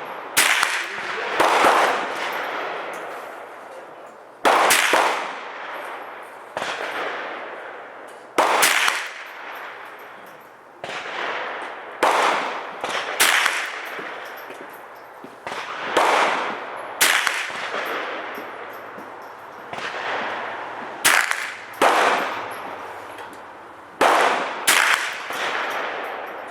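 Sig 522 .22 LR semi-automatic rifle firing single, spaced shots, about a dozen, one to four seconds apart, each with a long echoing tail.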